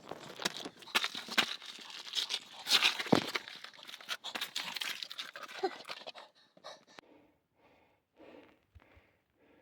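Clothing rustling and scraping with clicks and knocks as a person squeezes through a narrow lava cave passage. It fades after about six seconds into short, even panting breaths.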